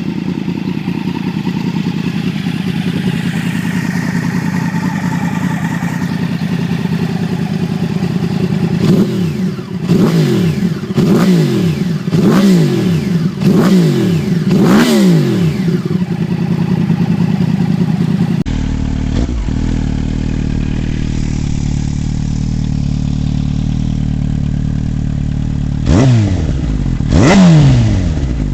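Yamaha R1's inline-four engine idling steadily through its exhaust, then revved in a string of about six quick throttle blips that each rise and fall sharply. After a cut, another R1 idles, with two more blips near the end.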